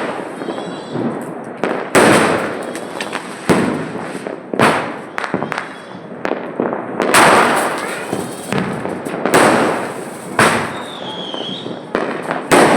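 Aerial sky-shot fireworks going off in a rapid series: about ten loud bangs, roughly one every second or so, each trailing off, with crackling in between.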